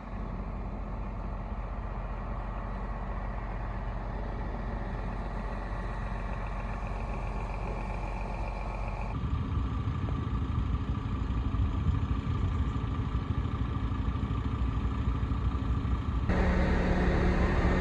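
Heavy engines running steadily, with the sound changing abruptly and growing louder about nine seconds in and again near the end.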